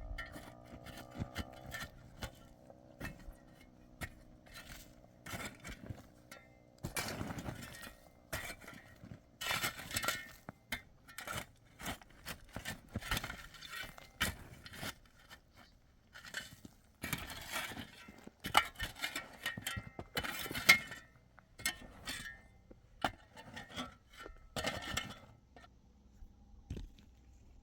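Irregular clinks and knocks of hard objects being handled, with several short stretches of scraping or rustling.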